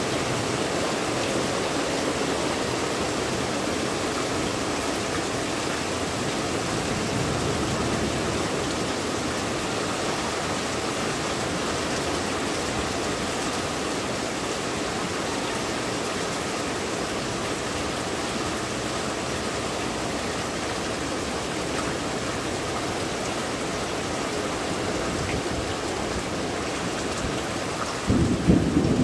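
Heavy rain falling steadily. A sudden low rumble of thunder breaks in about a second before the end.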